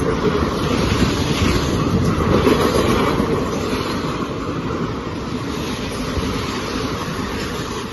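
Indian Railways passenger train running through the station at speed without stopping: a steady rush and rumble of coaches and wheels on the rails, loudest a couple of seconds in, easing off, then falling away sharply near the end.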